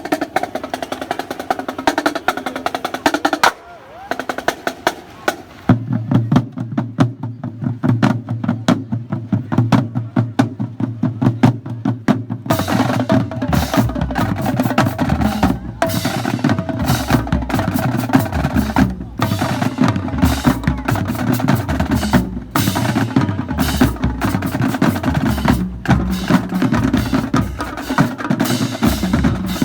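Marching drum corps playing a cadence: snare drums and multi-tenor quads with rapid stick strokes, tuned bass drums joining about six seconds in, and the full line with cymbals louder and fuller from about twelve seconds in.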